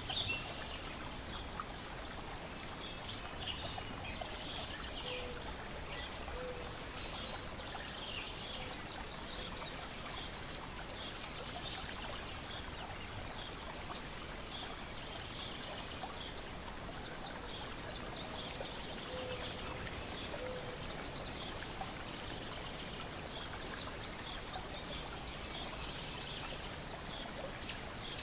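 Steady wash of lake water lapping and trickling, with small birds chirping and singing throughout.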